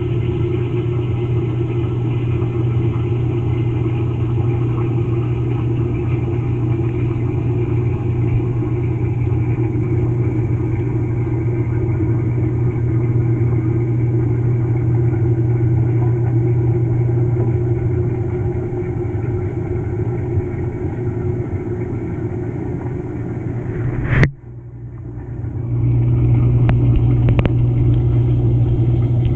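GE GTW220ACKWW top-load washer's drive motor and transmission running, heard from inside the tub through a camera housing fixed to the agitator: a steady low hum. About 24 seconds in there is a click and the hum drops out briefly, then it comes back up.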